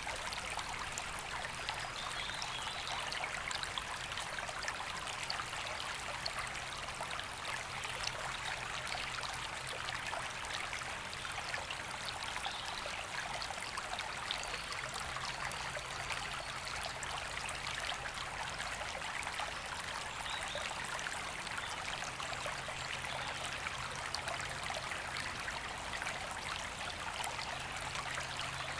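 A woodland river flowing steadily, a continuous even rush of water over stones.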